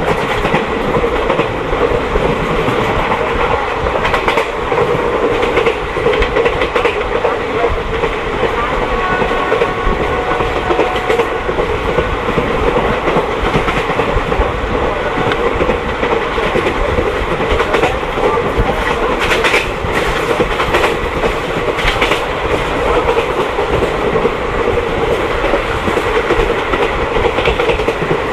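Passenger train running along the track: a steady rumble of wheels on rails, with the clickety-clack of rail joints and occasional clicks and knocks.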